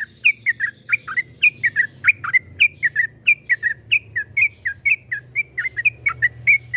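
Yellow-vented bulbul (trucukan) singing a long, rapid string of short whistled notes, about five or six a second.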